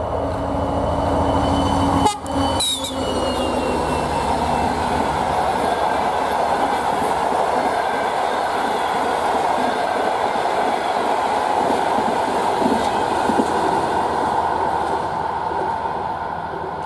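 Passenger train passing at speed behind a TEP70 diesel locomotive under power. The locomotive's engine is heard in the first couple of seconds, then the steady rush and clatter of the coaches' wheels on the rails, easing off near the end.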